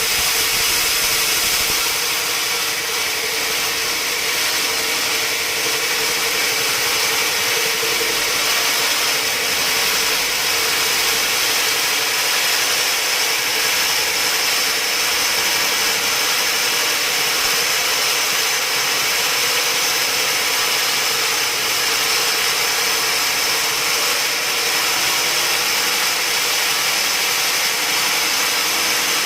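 Sawmill sawing machine running steadily, a constant loud machine noise with a steady whine and no breaks.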